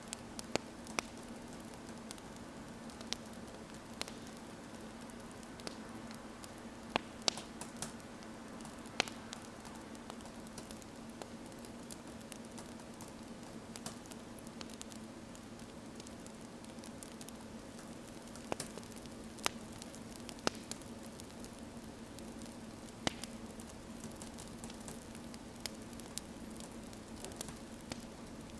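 Wood fire crackling: sharp, irregular pops scattered over a steady soft hiss.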